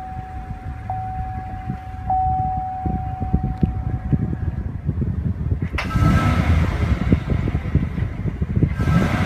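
Chevrolet Silverado's 6.2-litre V8 running just after a key start, a steady low rumble. A steady chime tone sounds over it, restruck about every second, and fades out about four seconds in. About six seconds in the sound becomes suddenly louder and fuller.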